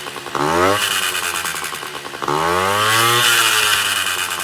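Honda Dio 34 scooter's small two-stroke engine being revved twice, its pitch rising sharply on each blip and then falling, with a harsh chattering rattle over the exhaust note. The owner traced this chatter to a worn piston rocking loosely in the cylinder.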